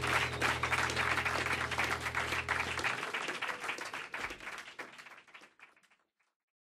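Audience clapping at the end of the song, with the final chord ringing underneath until it cuts off about three seconds in; the clapping then thins out and stops about six seconds in.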